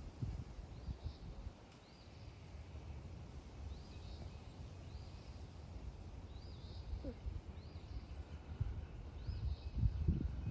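A bird calling over and over: short, high calls that rise and then level off, about once a second. Under them is a low rumble that grows louder near the end.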